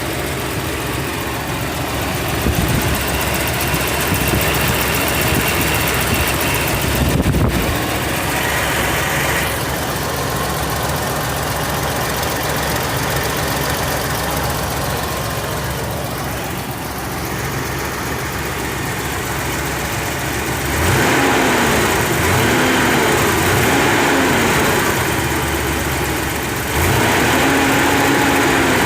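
Ford Scorpio 2.9 EFI V6 engine running steadily at idle. About two-thirds of the way in it gets louder, and the pitch rises and falls several times, stepping up again near the end.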